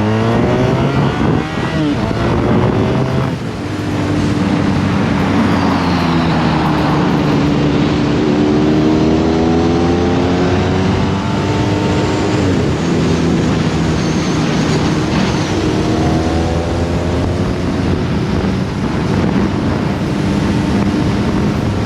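Honda VFR1200F's V4 engine through a Coffman Shorty slip-on exhaust, accelerating hard on the road. The engine note climbs and drops back at each gear change, about three seconds in and twice more later on, over wind rush. The bike is still on its stock ECU tune.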